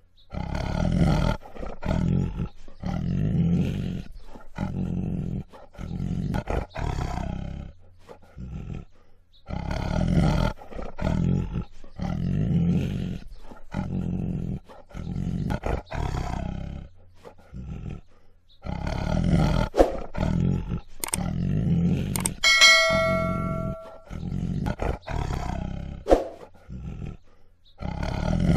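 Tiger roaring and growling over and over, in bursts of a second or two with short gaps. About two-thirds of the way through, a bell-like chime rings for about a second and a half.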